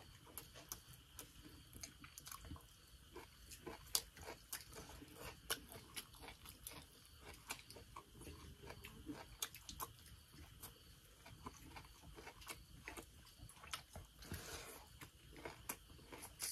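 A man eating rice and fried buffalo meat, faint close chewing and mouth sounds with many small, irregular clicks and smacks; one sharper click about four seconds in.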